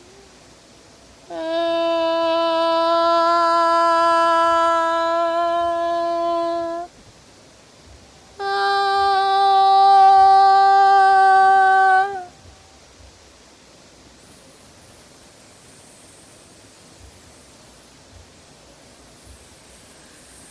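A woman's voice holds two long, steady vocal notes, the first about five seconds long and the second about four seconds and a little higher; between and after them only faint room noise.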